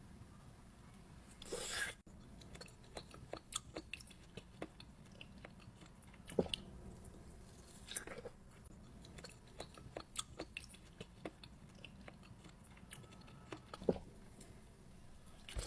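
Close-up mukbang eating sounds: someone chewing and biting into juicy fresh fruit, with many small wet clicks and a few louder bites.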